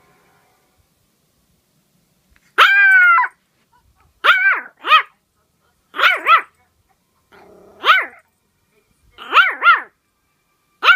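Dog barking at her own reflection in a mirror. After a short quiet spell comes one longer, drawn-out bark, followed by short barks mostly in pairs every one and a half to two seconds, with a low growl before two of them.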